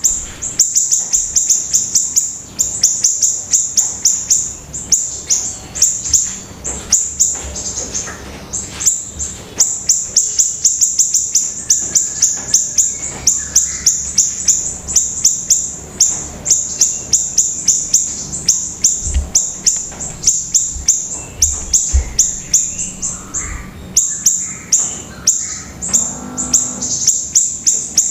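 A pleret songbird singing energetically in a continuous, rapid series of short, high-pitched chirps, each sweeping downward, several a second.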